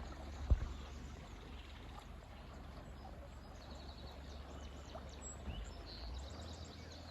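River water running steadily, with a low rumble underneath and a single thump about half a second in. Birds chirp in quick high series about four seconds in and again near the end.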